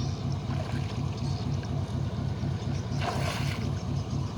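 Tugboat engine running steadily with a low, evenly pulsing rumble. A brief rush of noise about three seconds in.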